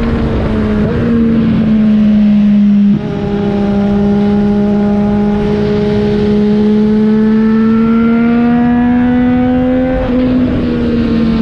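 Triumph Street Triple 765 RS's 765 cc inline three-cylinder engine running through a Yoshimura AT2 exhaust under riding load. About three seconds in, the engine pitch drops suddenly with a short dip, as at an upshift. It then climbs slowly for several seconds and eases off near the end.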